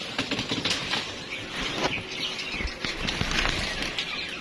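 Small cage birds fluttering their wings in their cages, with quick rustles and taps and scattered high chirps.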